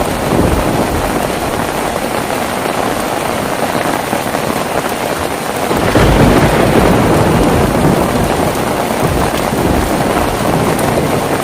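Heavy rain falling steadily, with a low rumble of thunder swelling up about halfway through.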